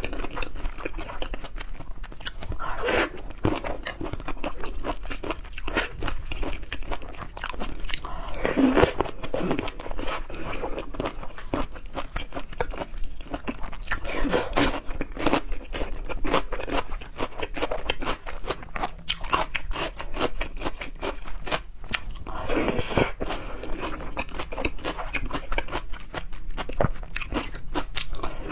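Close-miked eating of seafood: biting and chewing, a steady stream of small mouth clicks with a few louder bites scattered through.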